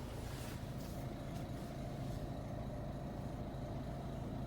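Citroen DS4's 1.6 e-HDi four-cylinder diesel engine idling steadily, a constant low hum.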